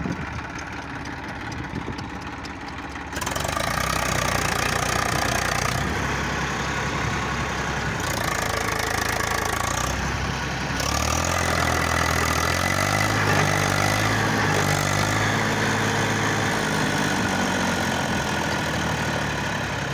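Eicher tractor's diesel engine running, getting louder about three seconds in, then revving with its pitch rising and falling as it works under load, straining to get the stuck tractor free.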